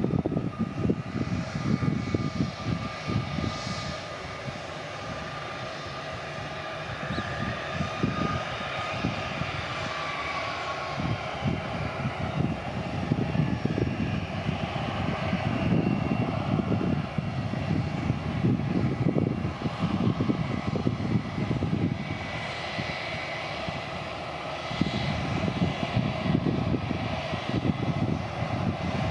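AirAsia jet airliner's engines running, a steady high whine over a rough low rumble.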